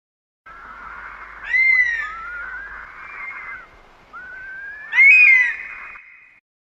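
Bird calls: a series of whistled notes that glide up and down, loudest about one and a half seconds in and again about five seconds in.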